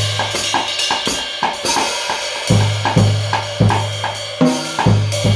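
Drum kit played with Kamin cymbals: cymbal wash over repeated bass drum and snare strokes, about two to three a second, with a short tom fill about four seconds in.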